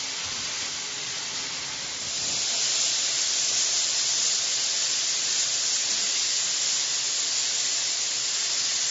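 Steady hissing noise, getting louder and brighter about two seconds in.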